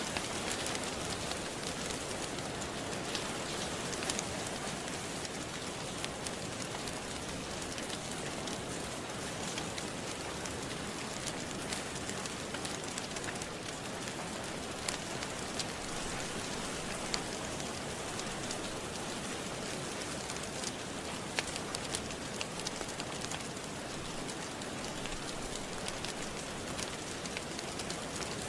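Steady rain falling on a surface, with scattered sharp crackles and pops from a wood fire in a fireplace.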